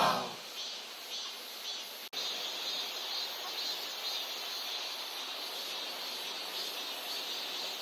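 Steady outdoor ambience of a valley stream rushing, with insects chirring on a high, faintly pulsing band. The tail of a loud shout-like sound fades out in the first half second, and there is a brief dropout about two seconds in.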